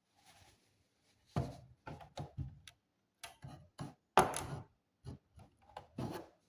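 Hands working on an all-in-one PC: a series of about a dozen knocks, taps and clicks of hard parts being handled, the loudest a little past four seconds in.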